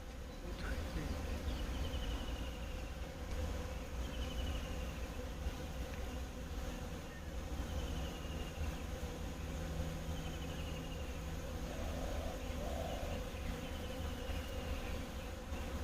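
Bees buzzing steadily, with a short, high, falling call repeating every two to three seconds over a low rumble.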